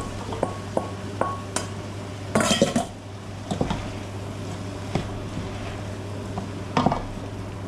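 A spoon stirring in a cooking pot, clinking and knocking against the pot at irregular moments, with a brief clatter about two and a half seconds in.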